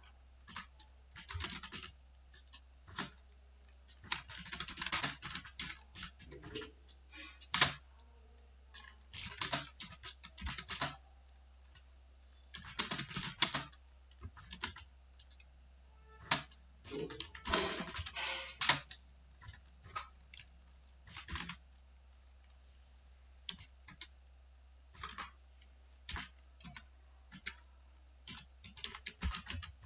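Typing on a computer keyboard: irregular runs of keystrokes lasting a second or two, broken by short pauses. A steady low hum lies underneath.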